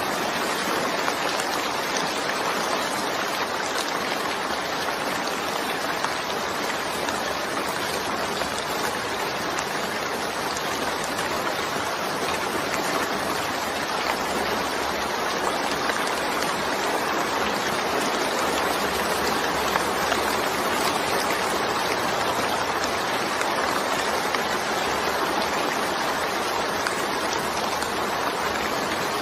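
Steady rain falling: an even, unbroken hiss of water that neither builds nor fades.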